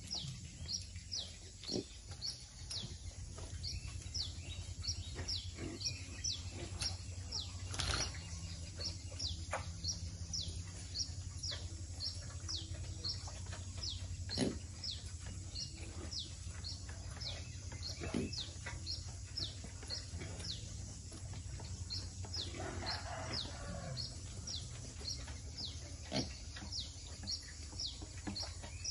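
A small bird chirping over and over, about two short falling chirps a second, over a steady low hum. A few soft knocks, and a brief rough noise about three quarters of the way through.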